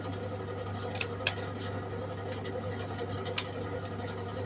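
SIP MIG welder switched on and humming steadily between welds, with a few faint clicks.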